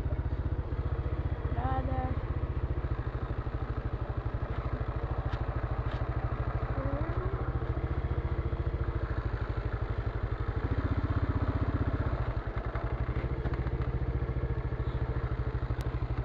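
Shtorm motorcycle's engine running steadily with a fast, even firing pulse, briefly a little louder about eleven seconds in before dipping.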